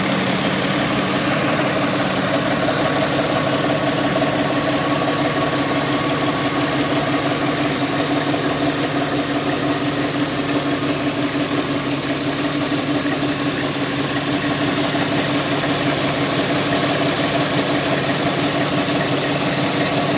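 Porsche 996's water-cooled flat-six engine running steadily at idle with a continuous squeak over the engine note.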